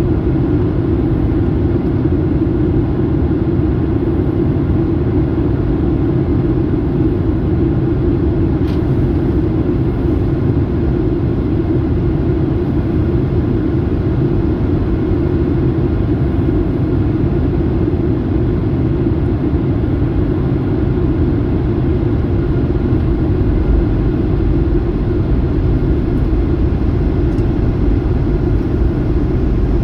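Airplane cabin noise: the engines and rushing air heard from inside the passenger cabin as a steady, even low rumble.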